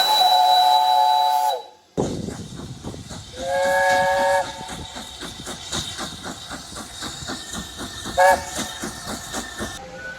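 Steam locomotive chime whistles: a loud multi-note blast that sags in pitch as it ends. Then another locomotive working hard with a rapid, regular exhaust beat, sounding a one-second chord whistle and, near the end, a short sharp toot.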